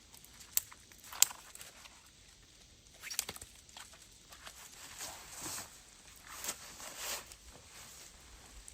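Three sharp snaps, two about a second apart near the start and one about three seconds in, then a run of soft crunching swishes in snow.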